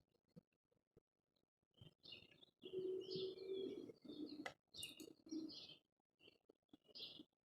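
Small birds chirping in short, quick bursts, starting about two seconds in, with a lower steady note around three seconds in and a single sharp click about four and a half seconds in.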